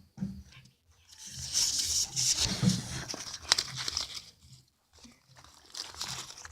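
Crackling and crinkling with a few sharp snaps, from a small campfire and its kindling as the fire is being got going.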